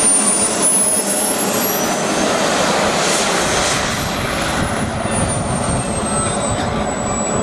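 A radio-controlled model aircraft's engine running in flight: a steady rushing noise with a thin high whine that rises in pitch over the first few seconds, then falls again.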